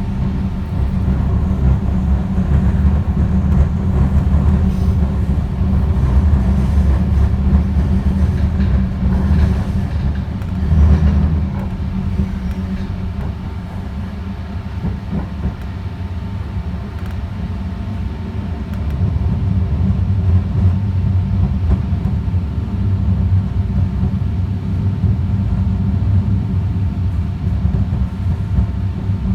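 Light-rail train running along the track, heard from inside the car: a steady low rumble of wheels and running gear with a faint steady whine, easing off about halfway through and then building again.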